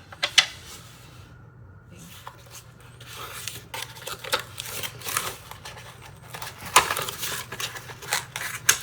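Packaging rustling and parts clicking as a Giffin Grip pottery-wheel trimming attachment is unwrapped and handled, with sharp clicks about half a second in, near seven seconds and near the end.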